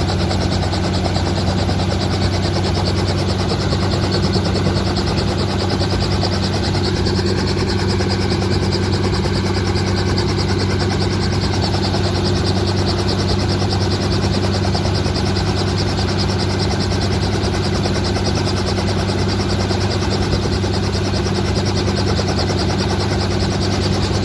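Helicopter running steadily: a loud, even drone with a low hum and a rapid, even pulsing.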